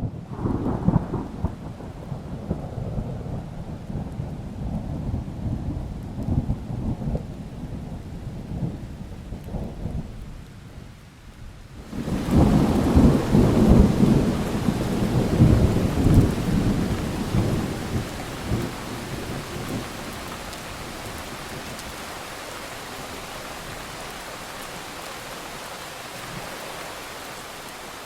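Thunderstorm: thunder rumbling low for about ten seconds and dying away, then a second loud peal about twelve seconds in as rain hiss comes up. The thunder fades over the next several seconds, leaving steady rain.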